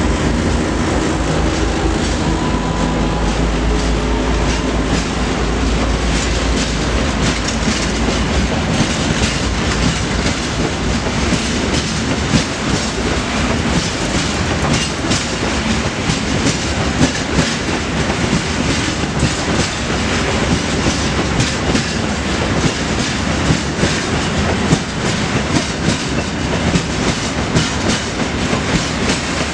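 PKP Cargo ST44 diesel locomotive passing, its two-stroke V12 engine's low drone fading away over the first eight seconds or so. A long train of hopper wagons follows, rattling past with wheels clicking steadily over the rail joints.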